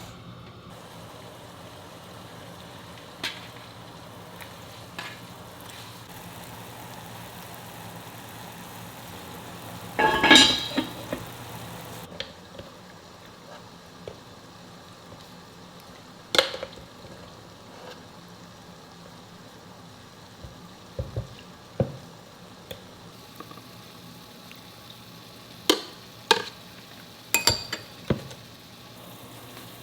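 Food frying in a pot over a steady low hum, with scattered clatters and clinks of a utensil against the pot; the loudest clatter comes about ten seconds in, and several more come near the end.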